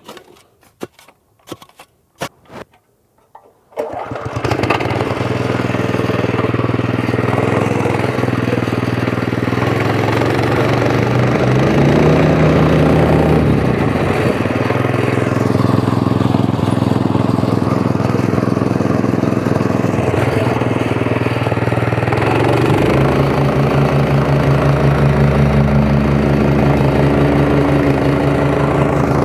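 A few knocks, then about four seconds in a compactor's small engine starts and runs steadily, its pitch shifting a couple of times as it works.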